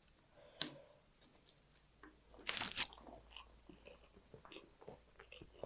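Close-up chewing and mouth sounds of someone eating fish curry and rice: wet smacks and small crunches, with a louder crunch or bite about halfway through.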